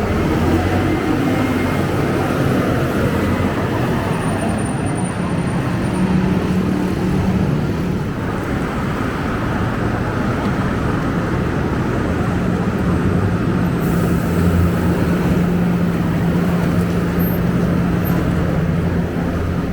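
Scania K270UB city bus's five-cylinder diesel engine running, its hum changing in pitch as the bus drives off and, from about eight seconds in, as it pulls in to a stop.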